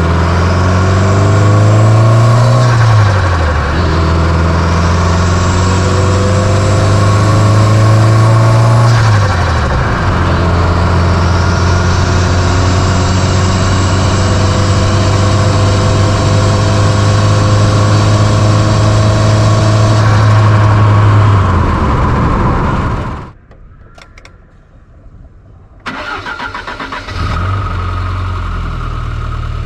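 1995 Fiat Coupé 2.0 16V turbo engine, heard from inside the engine bay. It is revved and held up twice, dropping back each time, then runs at a steady raised speed. About 23 s in it goes quiet, and a little after 26 s it starts again and settles into a steady idle.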